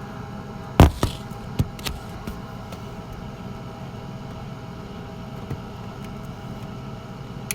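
A few sharp clicks and knocks from objects being handled, the loudest about a second in, over a steady low hum.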